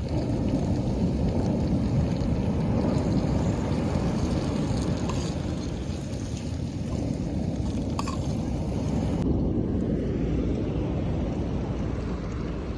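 Wind buffeting the microphone at the seashore, a steady low rumble, with the wash of sea waves underneath.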